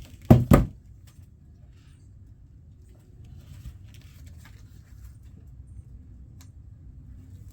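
Two loud sharp knocks about a quarter second apart near the start, then faint clicks and rustles of handling over a low steady hum.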